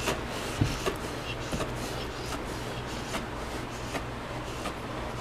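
Black Labrador retriever making weird breathing noises during an epileptic seizure, over a steady low hum, with a few faint ticks.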